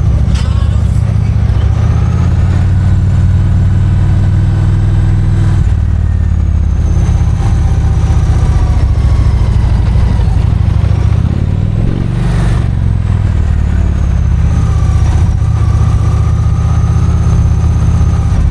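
Motorcycle engine running steadily under way, heard loud and close; its note changes about a third of the way in and again about two-thirds through, as with gear changes.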